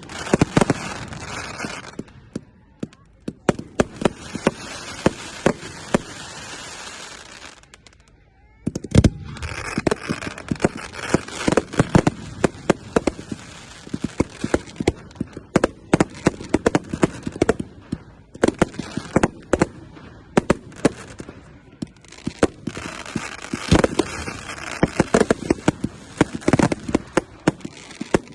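Firework display: rapid sharp bangs over a dense crackle from aerial shells, going on almost without a break, with two short lulls, about three seconds in and around eight seconds in.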